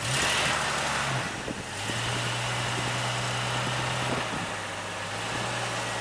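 An off-road vehicle's engine running at low, steady revs as it crawls slowly over rock. A brief rush of hiss comes in the first second or so.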